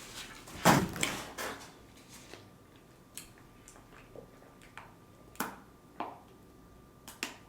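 Close-miked mouth sounds of a person eating: chewing and biting food, heard as a few scattered short smacks and clicks, the loudest a little under a second in.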